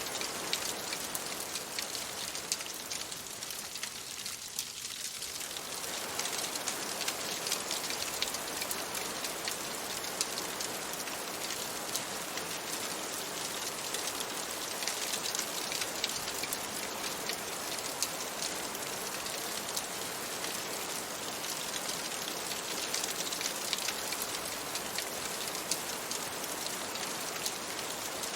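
Steady rain falling on a window, a dense patter of fine drops.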